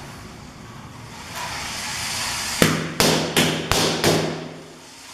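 Five balloons bursting in quick succession, about a third of a second apart, popped by a Lego train driving through them on its track.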